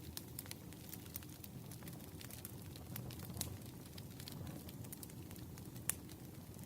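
Wood campfire burning, a steady low rumble of flames with irregular crackles and sharp pops of the firewood; the loudest pop comes near the end.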